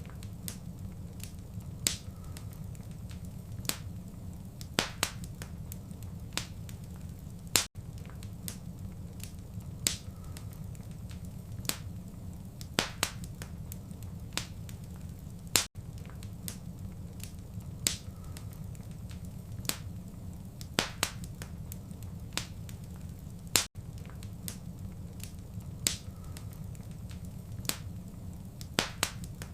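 Wood fire crackling in a fireplace: sharp, irregular pops and snaps, one every second or so, over a steady low rumble of the flames. The sound drops out very briefly about every eight seconds.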